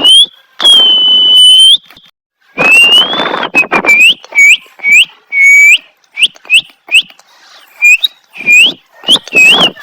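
Parrot whistling: one long held whistle, then a run of short whistled notes that each hook upward, some with a harsh raspy edge.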